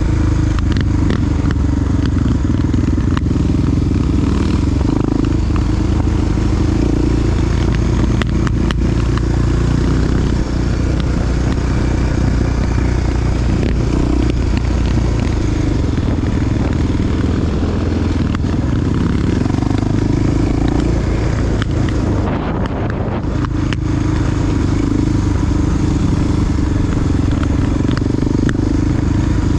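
Honda XR dual-sport motorcycle's big single-cylinder four-stroke engine running steadily under way, with a constant rush of noise over it. The engine eases off briefly about three-quarters of the way through, then picks up again.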